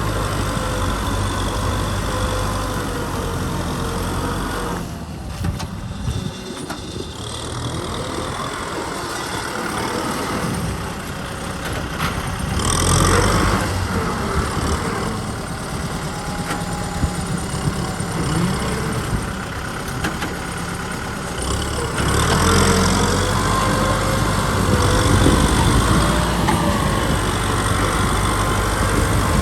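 Kubota M6040 SU tractor's diesel engine running steadily while ploughing. Its sound dips about five seconds in and comes up louder again later on.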